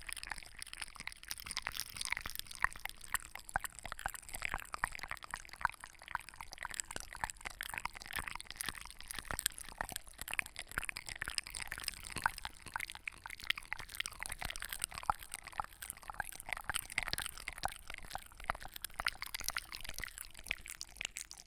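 Close-miked ASMR trigger sounds: a steady, dense stream of small crackles and clicks.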